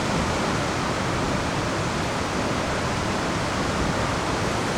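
Rain falling steadily in a thunderstorm: an even, unbroken hiss with no thunderclaps.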